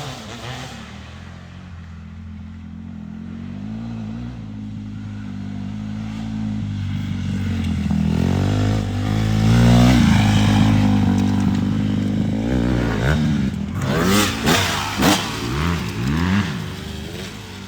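Dirt bike engine running, growing louder and peaking about ten seconds in, then a series of quick revs that rise and fall near the end.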